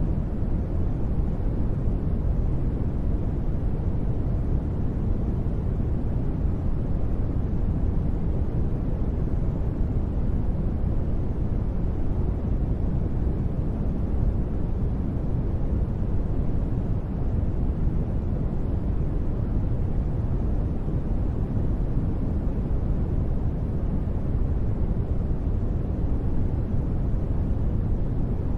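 Continuous steady noise for sleep: an even, deep rushing sound with most of its weight low and only a little high hiss, with no changes or sudden sounds.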